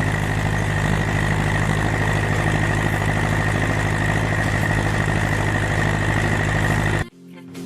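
Ursus C-360 tractor's four-cylinder diesel engine running steadily at constant speed, cutting off abruptly near the end.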